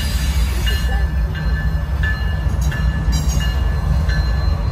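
A train passing with a heavy, steady low rumble, while a bell rings over it at an even pace of about one stroke every 0.7 seconds.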